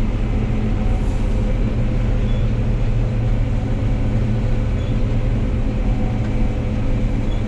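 John Deere 9760 combine running steadily while harvesting wheat: a continuous low machine drone with a steady hum, unchanged throughout.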